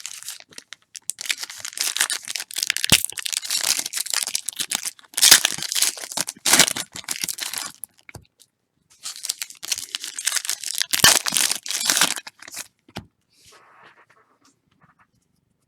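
Trading-card pack wrappers being torn open and crinkled by hand: two long stretches of crackling and rustling, with a few sharp knocks mixed in, tailing off near the end.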